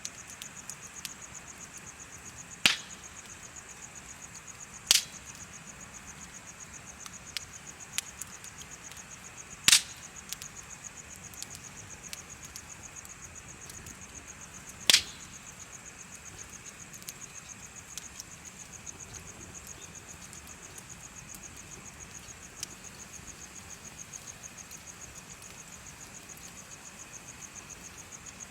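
Wood in a bonfire crackling, with four loud sharp pops spread through and fainter ticks between, over a steady high-pitched, rapidly pulsing chirping of insects.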